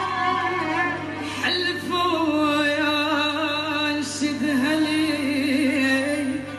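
Music: a solo voice singing a long, ornamented line with a wavering vibrato over a steady held accompaniment.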